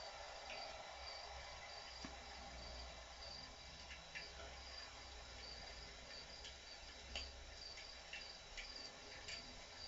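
Faint cricket chirping, a high note pulsing steadily about twice a second, with a few scattered crackles and pops from a wood campfire.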